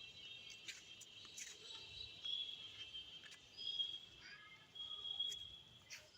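Outdoor animal sounds: a steady high insect-like trill, with short high whistled calls, likely birds, repeating about every second and a half, and a few scattered clicks.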